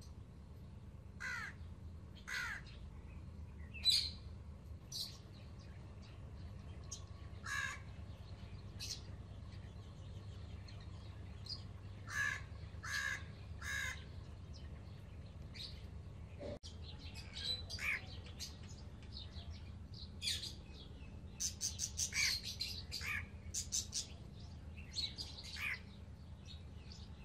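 Baby Alexandrine parakeet chicks calling in short, scattered calls, with a quick run of calls about three-quarters of the way through. A steady low hum runs underneath.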